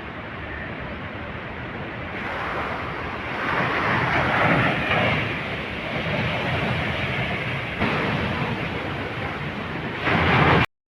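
Floodwater rushing in heavy flow, released with all the dam's gates open, with wind buffeting the microphone. It swells louder a few seconds in and again just before it cuts off abruptly near the end.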